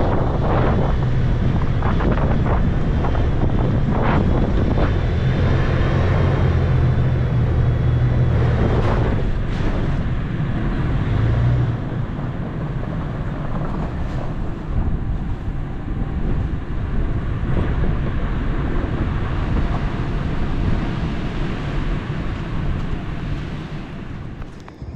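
Toyota FJ Cruiser's 4.0 L V6 running as the truck drives a dirt trail, with wind buffeting the microphone. The engine's steady low drone drops away about halfway through, leaving rougher noise with a few knocks.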